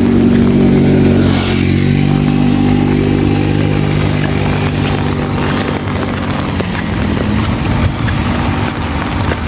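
Motorcycle engine running steadily close by, its pitch shifting a little near the end, over the hiss of heavy rain.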